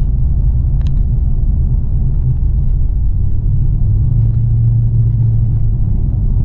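Holden Caprice's LS3 6.2-litre V8, breathing through a full Pacemaker twin 3-inch exhaust with a custom-grind camshaft, rumbling steadily under way. A steady droning note settles in about four seconds in.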